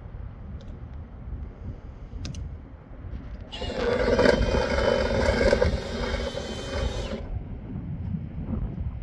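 A small electric motor whirs steadily for about three and a half seconds, starting and stopping abruptly, over a constant low rumble.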